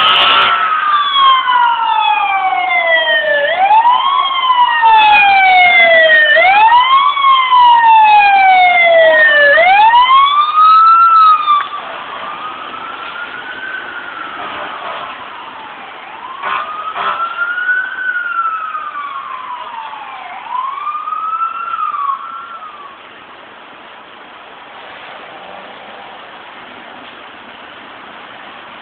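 Fire engine siren wailing in slow repeating rises and falls, with more than one wail overlapping. It is loud for the first dozen seconds, then drops sharply in level and carries on more faintly until it stops about 23 seconds in, leaving a steady background rush.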